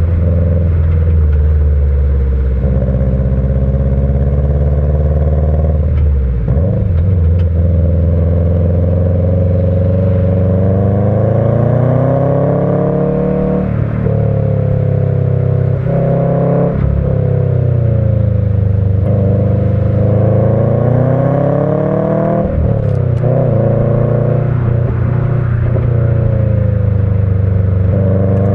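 Subaru Impreza WRX's EJ20 turbo flat-four, breathing through a stock unequal-length header and Kakimoto muffler, pulling under load with its uneven boxer rumble. The revs climb over a few seconds and then drop sharply, several times over, as the car is driven hard through a run of corners.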